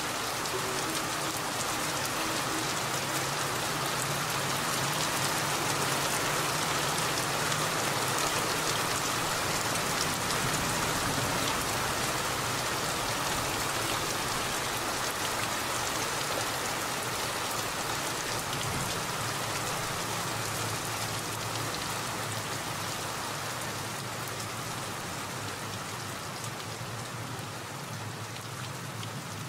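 Steady rain falling and pattering on surfaces, with a low steady hum underneath.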